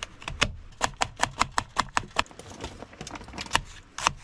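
Knife chopping on a cutting board: a quick, regular run of sharp taps, about six a second, thinning out toward the end.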